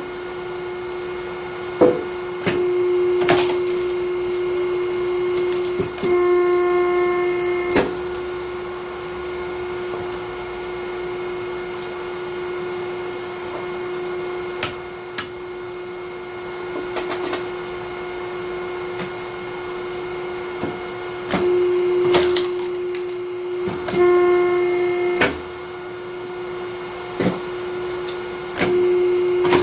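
Hydraulic log splitter running with a steady hum, twice rising to a louder, harsher whine for a second or two, with scattered sharp cracks and knocks of logs splitting and wood being handled.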